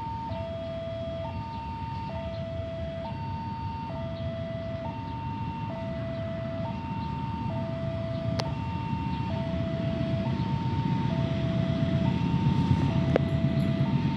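Railway level crossing alarm sounding, alternating high and low electronic tones at about one pair a second, the warning that a train is approaching. Under it a low rumble builds steadily louder toward the end.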